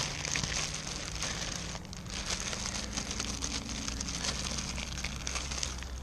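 Crinkling, crackly rustle of plastic bait packaging being rummaged through while soft-plastic lures are picked out.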